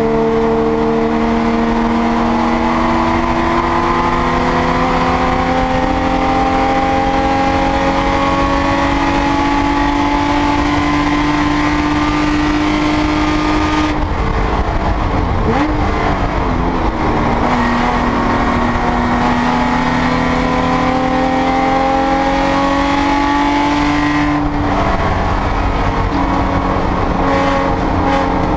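Porsche 996 race car's flat-six engine heard from inside the cabin, pulling hard with its pitch rising slowly. About halfway through the pitch breaks and dips briefly before it climbs again, and there is another break near the end, all over steady road and wind noise.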